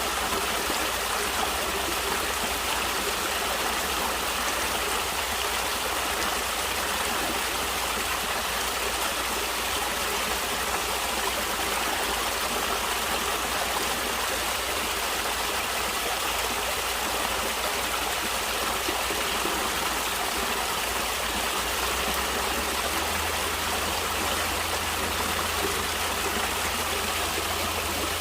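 Natural stream water flowing, a steady, unbroken rush.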